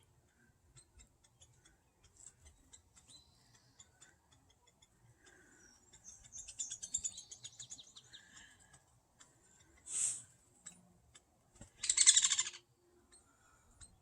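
Young woodpecker's begging chatter while a parent feeds it: a rapid, high-pitched chattering about six to eight seconds in and again, loudest, about twelve seconds in, with a single sharp call near ten seconds and faint scattered ticks between.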